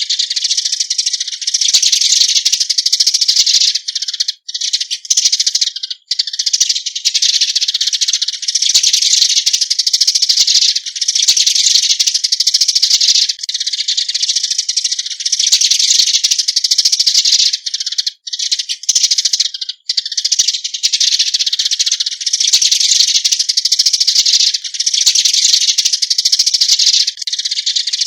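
Eurasian tree sparrows giving their flock-gathering call: a loud, dense, rapid run of high-pitched chirps and chatter, broken by a few brief gaps.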